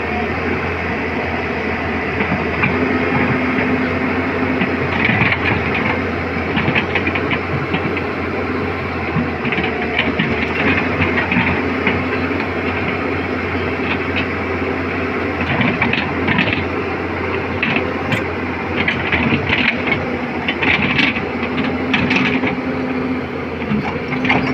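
Excavator diesel engine running steadily, with repeated bursts of metal clanking from the steel track chain as it is worked on.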